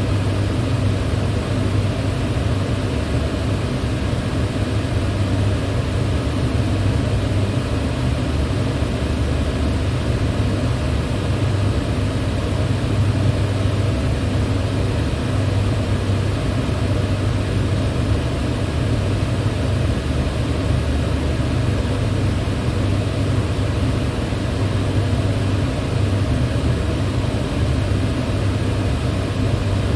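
Electric fan running steadily: an even rushing noise of moving air over a strong, constant low hum.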